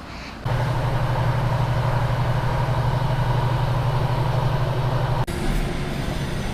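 A vehicle engine idling: a loud, steady, deep hum that starts abruptly about half a second in and cuts off abruptly about five seconds in, leaving a quieter vehicle rumble.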